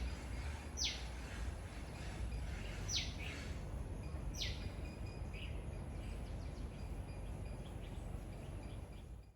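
A bird giving three quick down-slurred whistled calls, a second or two apart, over steady outdoor background noise. The sound cuts off suddenly near the end.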